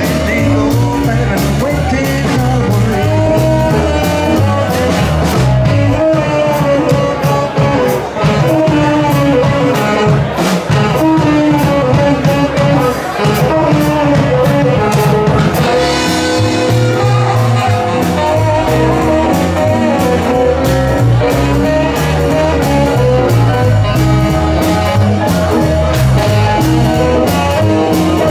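Live band playing an upbeat swing number: electric guitar over a walking bass line and a steady drum beat.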